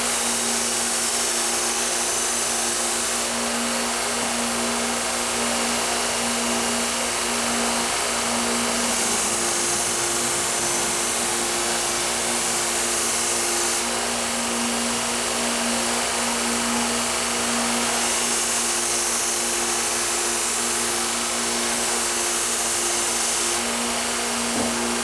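Powered knife-sharpening machine running steadily with a constant motor hum, a knife blade being drawn across its spinning 400-grit abrasive. The hiss of the blade on the abrasive comes and goes in passes lasting several seconds, raising the burr along the edge.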